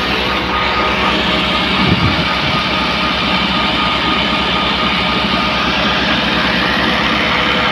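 Tractor engine driving a belt-driven chakki hammer mill that is grinding grain, running steadily under load with an even low pulse and a dense grinding rush. There is a brief low surge about two seconds in.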